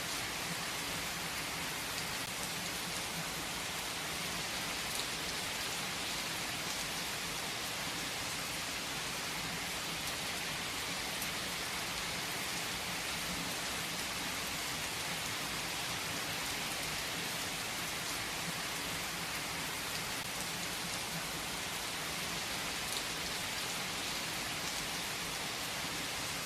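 Steady rain falling, an even hiss of many drops on a surface with no letup.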